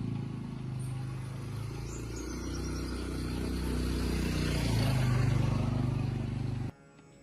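Truck engine running under load with a wavering note, growing louder about two-thirds of the way through, then cut off suddenly near the end.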